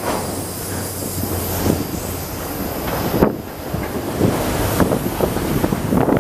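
CPKC train cars rolling past below: a steady rumble of steel wheels on rail with irregular clicks and clanks, and one sharp clank about three seconds in. Wind buffets the microphone.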